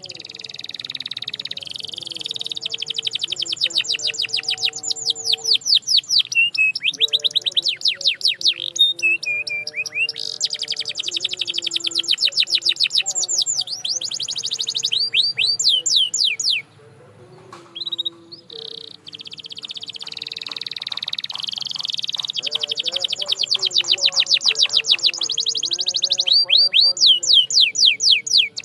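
Canary singing long rolling trills of rapid repeated notes, rising and falling in pitch, with a short pause a little past the middle before the song resumes.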